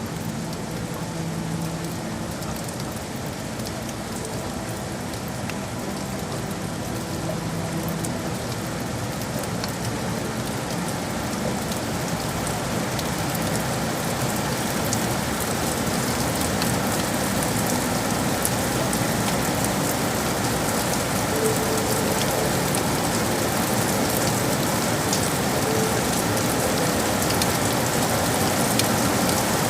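Steady rain falling on hard surfaces, growing gradually louder.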